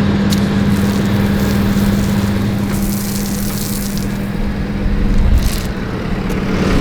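Engine of heavy equipment running steadily at one speed, with a hiss like spraying water over it that swells a couple of times.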